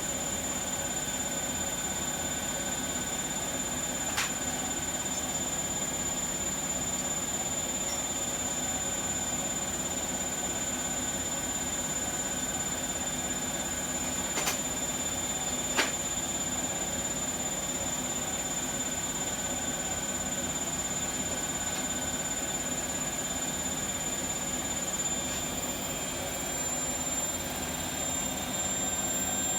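Bosch washing machine running a high-speed spin, with a steady high whine over a broad rumble and a few light clicks; the whine rises slightly in pitch near the end. The drum bearings are suspected of being worn.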